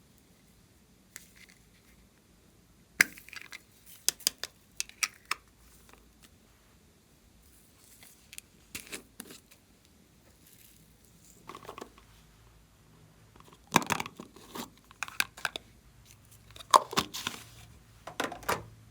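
Slime being squished and kneaded by hand, giving clusters of sharp crackling clicks and pops in short bursts every few seconds.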